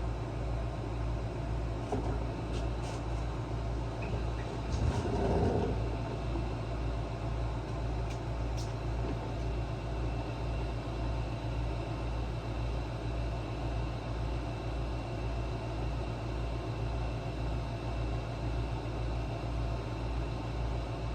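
A steady low machine hum with a slow, even pulse, and over it a few light clicks of small parts being handled, with a brief louder clatter about five seconds in.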